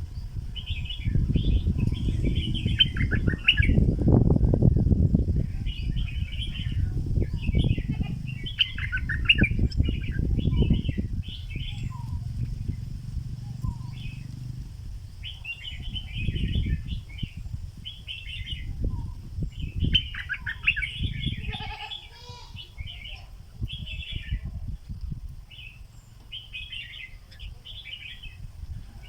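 Stripe-throated bulbul decoy bird singing: bursts of quick, bubbly phrases repeated every few seconds with short pauses. A louder low rumbling noise runs underneath, strongest in the first half.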